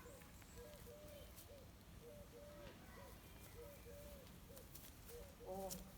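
Dove cooing faintly: a soft, low hooting note repeated in short runs.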